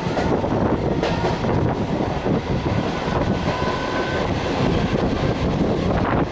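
Mumbai suburban electric local train running at speed, with a dense rattle and rumble of wheels on track and a faint thin whine for about a second midway.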